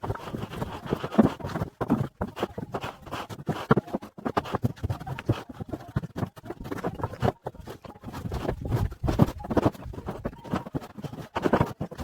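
Fired clay bricks clacking and knocking against one another in an irregular run of hard strikes as they are loaded by hand.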